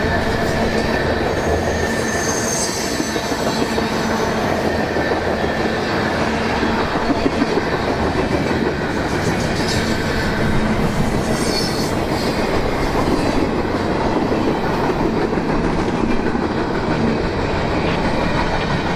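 Freight train rolling past close by: steady noise of wheels on rail throughout, with brief high-pitched squeals about 3 seconds in and again around 10 to 12 seconds in.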